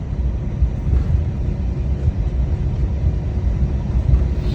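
Steady low rumble inside an airliner's cabin, on the ground after landing.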